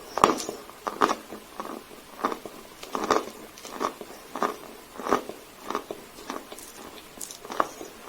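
Dry Sevryukovo chalk being chewed close to the microphone: a steady run of crisp crunches, about two a second, the loudest coming right at the start.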